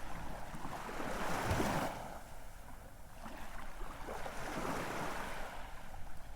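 Ocean waves breaking and washing up a shore in a steady hiss of surf. One wave surges through the first two seconds and ebbs away, and the next builds again after a lull.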